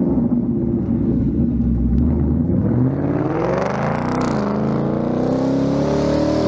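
S650 Mustang GT's 5.0 L V8 through a Pypes catback exhaust, holding a steady rev for about three seconds, then revving up. The pitch dips briefly about four seconds in, climbs again, and falls off at the end.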